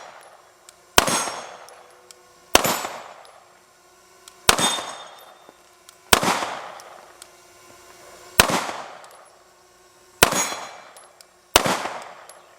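SIG Sauer P320 M18 9mm pistol firing seven single shots at a steady, unhurried pace, one every one and a half to two seconds. Each report fades out slowly.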